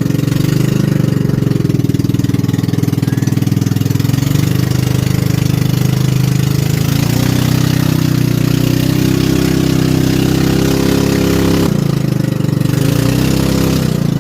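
Motor of a small motorized river canoe running steadily with rapid, even firing pulses. About twelve seconds in it slows briefly, then picks up again.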